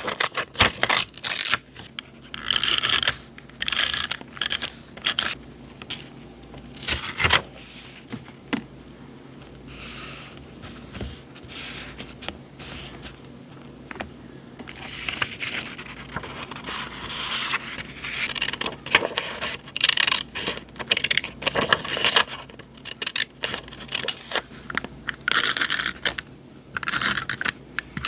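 Sheets of paper ephemera and packaging being handled, with irregular bouts of rustling and sliding scrapes between quieter moments.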